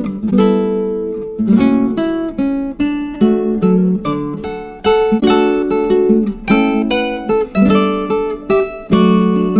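Background music: an acoustic guitar picking and strumming a run of chords, each note ringing out and fading.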